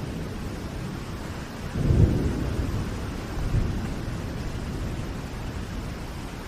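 Steady rain, with low rolls of thunder: the loudest swells about two seconds in, and a smaller one follows about a second and a half later.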